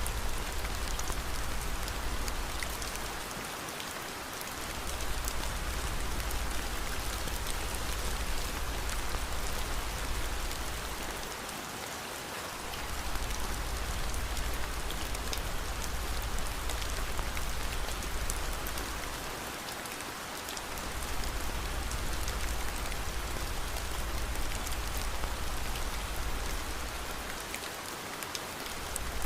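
Steady rain hiss mixed with the faint, scattered crackles of a fireplace. A low rumble underneath fades out briefly about every eight seconds.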